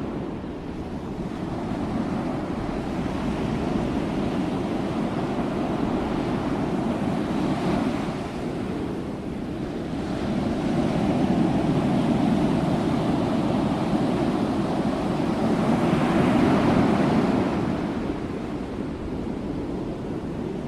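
Ocean waves breaking on a shore, a continuous wash of surf that swells and eases, with the biggest surges about halfway through and again near the end.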